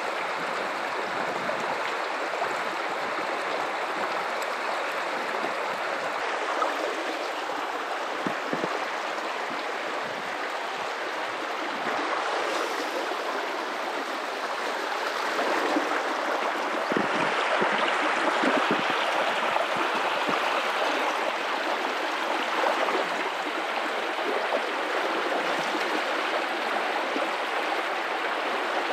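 River water running over rocks in a steady rushing and gurgling flow, swelling a little about two-thirds of the way through.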